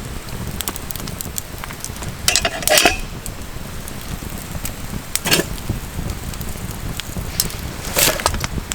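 Wood campfire crackling with sharp pops over a steady low rumble, and a few louder clattering crunches about two and a half, five and eight seconds in.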